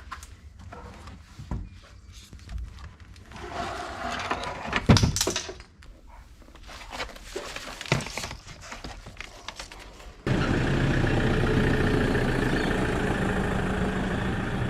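Scattered knocks and clunks, loudest in a cluster about five seconds in, then an abrupt switch to steady vehicle running noise with a low hum.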